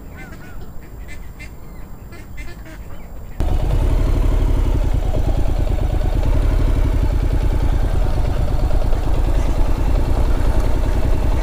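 Ducks quacking briefly, then an abrupt switch about three seconds in to a Honda NC750X's parallel-twin engine running steadily under way at low speed, with wind noise on the rider's microphone.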